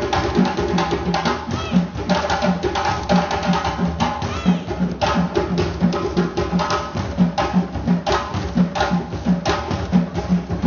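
Drumming for African dance: many sharp drum strikes in a fast, steady rhythm over an evenly spaced low drum beat.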